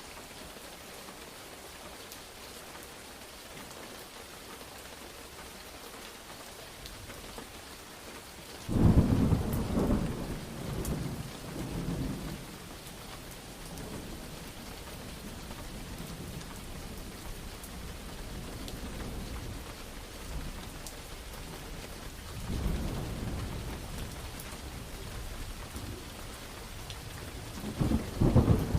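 Steady rain with thunder: a sudden loud thunderclap about a third of the way in that rolls on for three or four seconds, a softer rumble later, and another clap breaking near the end.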